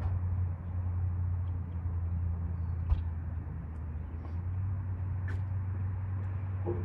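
A steady low hum, with a few light clicks and one sharper knock about three seconds in, typical of parts being handled during a teardown.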